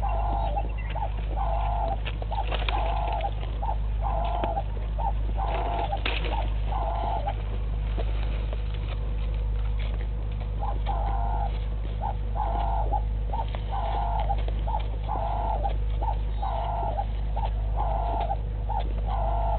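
A bird calling a long series of short, evenly repeated notes, about one and a half a second, that stops for a few seconds around eight seconds in and then starts again. A steady low electrical hum runs beneath it.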